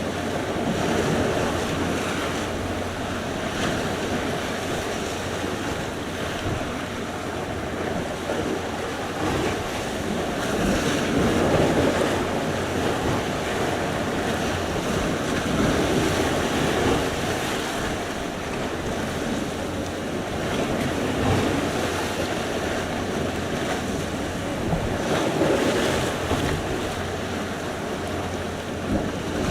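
Sea surf: waves breaking and washing ashore in a steady, continuous rush that swells and eases every few seconds, with wind noise on the microphone.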